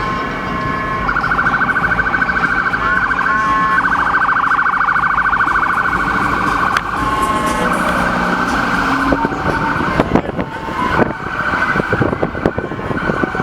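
Police car siren sounding, shifting into a fast warbling yelp a few seconds in. A few sharp knocks sound about ten seconds in.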